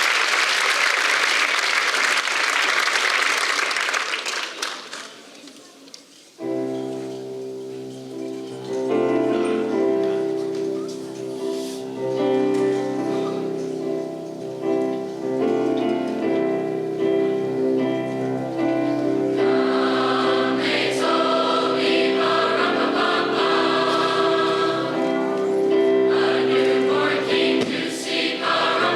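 Audience applause fading out over the first several seconds, then a high school choir starts singing held chords, the sound filling out and growing louder about two-thirds of the way through.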